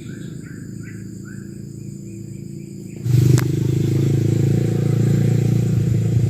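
Short repeated bird notes, about three a second, over a low hum. About halfway through, a loud, steady motor noise starts suddenly, as of a motorcycle engine running close by, with a click just after it begins.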